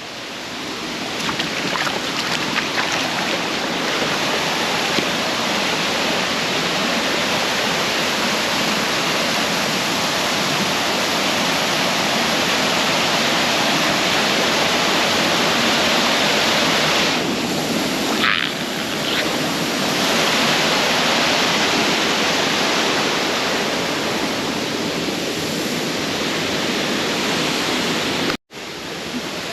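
Waterfall: the steady, loud rush of falling water, cut off abruptly for a moment near the end.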